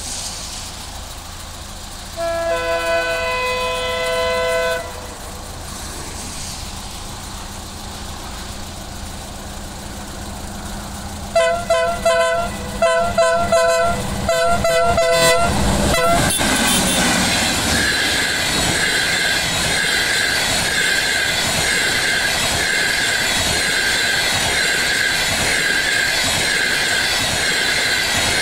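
Diesel-hauled passenger train approaching a level crossing and sounding its air horn: one long blast a couple of seconds in, then a string of about ten short blasts starting about eleven seconds in. From about sixteen seconds the locomotive and coaches pass close by, wheels running on the rails with a steady high ring.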